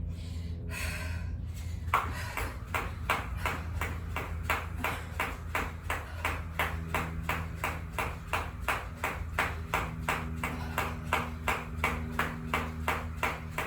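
Jump rope turning steadily, the rope slapping the floor about three times a second, starting about two seconds in. A steady low hum runs underneath.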